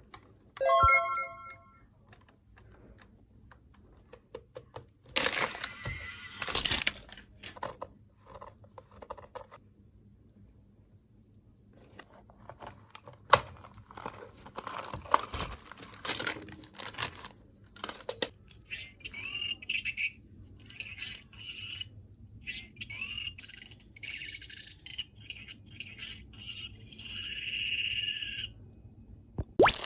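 Unboxing of a plastic electronic toy set: scattered clicks and taps as parts are handled, with a loud burst of tearing and crinkling of packaging about five to seven seconds in.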